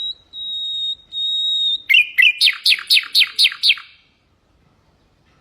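Nightingale singing: long, level whistled notes, then a fast run of about seven sharply falling notes that ends about four seconds in.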